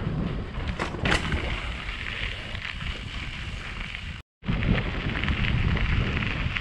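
Wind buffeting the microphone while cycling along a gravel rail trail, with a crackling hiss of tyres rolling on the gravel. Two short sharp sounds about a second in, and the sound drops out for a moment about four seconds in before carrying on.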